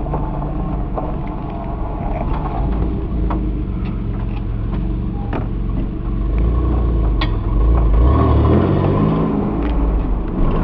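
Motor vehicle engine running with a low rumble, its pitch rising and falling with the throttle, with scattered sharp clicks and rattles throughout.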